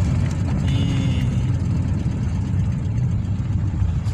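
Steady low rumble of a square-body VW Gol on the move, heard from inside the car: engine and road noise.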